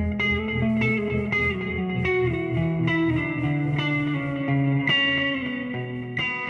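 Electric guitar picking single notes about every half second over ringing, sustained tones, the lower line stepping down in pitch, in a slow psychedelic rock intro.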